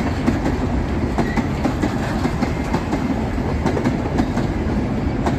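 Passenger train running along the track: a steady rumble with the wheels clicking irregularly over rail joints, several clicks a second.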